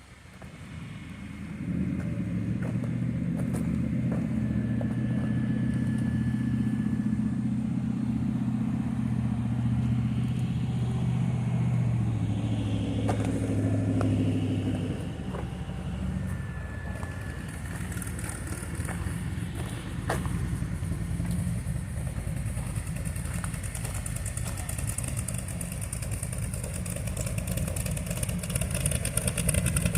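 A vehicle engine starts to be heard about two seconds in and runs steadily with an even pitch. About halfway through it changes to a rougher, lower sound that gets louder toward the end.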